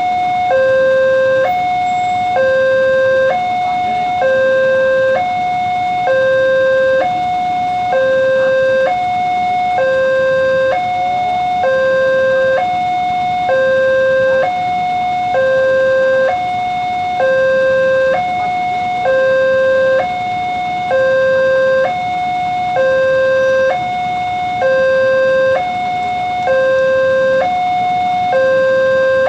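Railway level-crossing electronic warning signal, alternating steadily between a higher and a lower tone, each held about a second, the alarm that sounds while a train approaches and the gates are closed.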